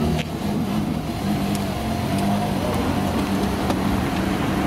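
Porsche Carrera GT's V10 engine running at low revs as the car pulls away slowly, a steady, even note without hard revving.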